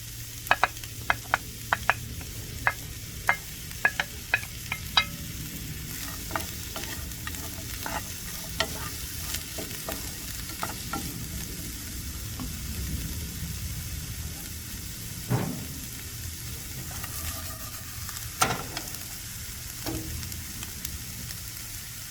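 Diced onion and red bell pepper sautéing in hot oil in a frying pan, a steady sizzle, stirred with a utensil that clicks against the pan. Quick taps come thick in the first five seconds, then the sizzle carries on with only occasional knocks, a louder one about fifteen seconds in and another near the end.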